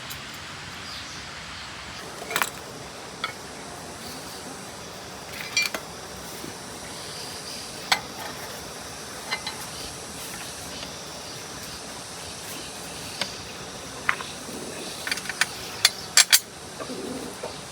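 Scattered sharp metallic clinks and taps of hand tools on metal tiller parts, a handful spread out and then a quick run of them near the end, over a steady hiss.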